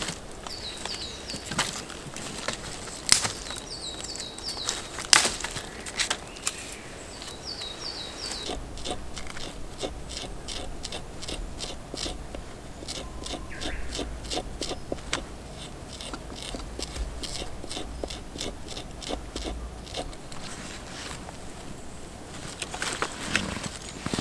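A bird calling in short groups of three or four high chirps, over scattered sharp clicks and light knocks that come quickly, about two or three a second, through the middle.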